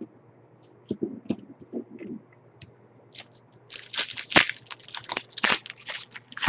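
Trading-card pack wrapper crinkling and tearing as the pack is opened: a few soft handling knocks at first, then from about halfway a run of loud crackly rustles.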